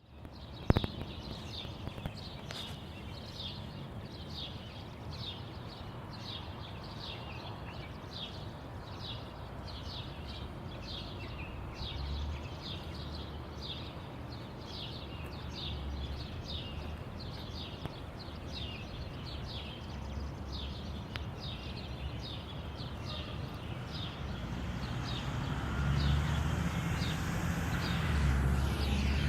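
A bird calling over and over: a steady run of short, high, falling chirps, about two a second, over a low outdoor rumble. Near the end a passing vehicle grows louder.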